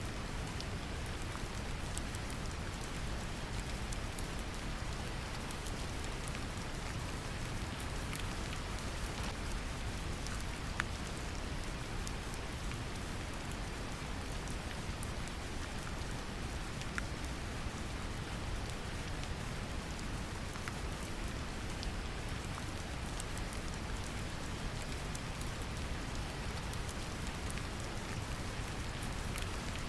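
Steady brown noise, deep and rumbling, mixed with gentle rain falling on a surface, with scattered light raindrop ticks.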